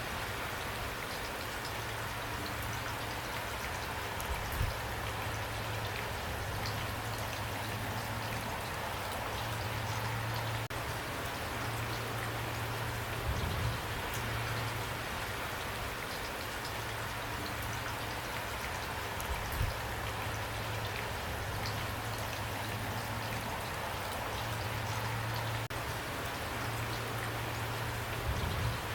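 Steady rain falling, with individual drops pattering against a constant hiss and a few soft low thumps scattered through it.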